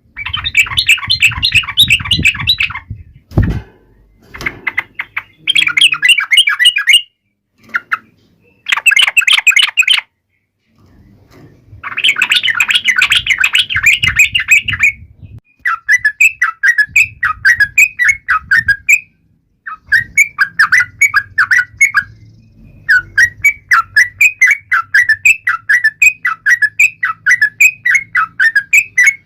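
Yellow-vented bulbul (trucukan) singing loud, fast chattering phrases with short pauses, then a long run of repeated bubbly notes, a few a second. There is a low knock about three and a half seconds in.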